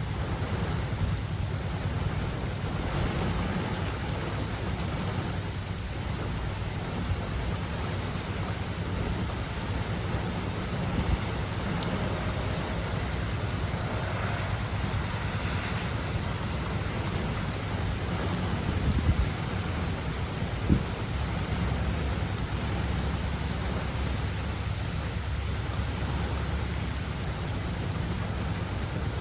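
Steady heavy rain from a thunderstorm, with low rolling rumbles of thunder underneath and a few sharp taps partway through.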